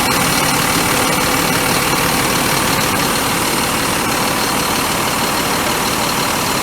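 Scania truck's diesel engine running steadily, loud and close.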